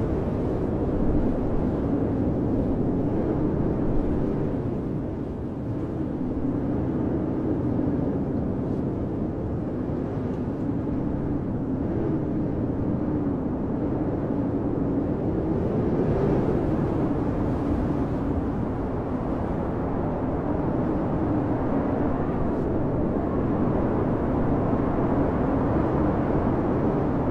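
Blizzard wind blowing steadily: a deep rushing noise with a low moaning tone that wavers slowly up and down, swelling and easing a little in strength.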